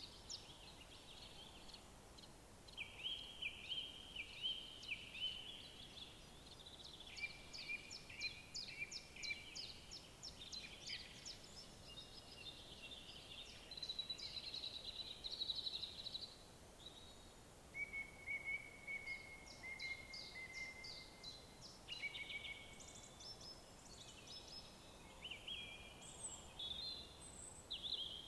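Several songbirds singing at once in overlapping phrases of rapid chirps, trills and short whistles, over a faint steady hiss.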